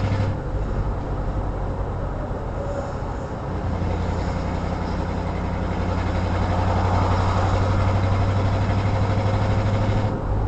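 A car's engine and road noise heard from inside the cabin while driving, a steady low drone that eases off for a few seconds soon after the start and then picks back up.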